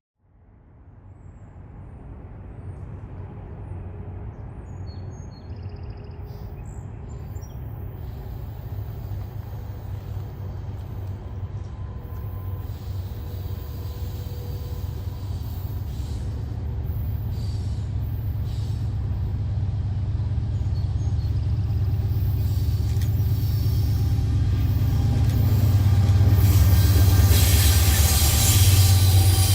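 Diesel-hauled train approaching, a deep locomotive rumble growing steadily louder, with the hiss of wheels on rail rising near the end.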